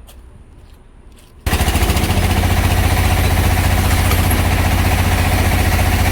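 A few light clicks, then about a second and a half in an engine cuts in abruptly at full level and runs steadily with a fast, even pulse and a strong low hum.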